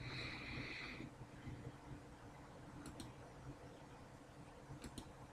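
Faint handling of trading cards: a soft sliding hiss for about the first second, then a few light clicks.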